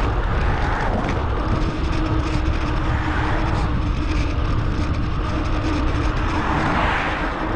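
Steady rush of wind on an action camera's microphone while riding a bicycle, with a deep rumble and a faint steady hum underneath.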